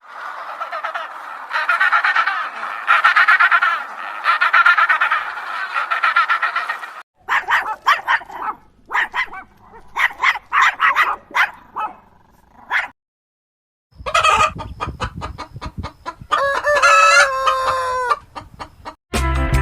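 Chickens clucking and a rooster crowing, in three short spliced clips with a brief silence between the second and third.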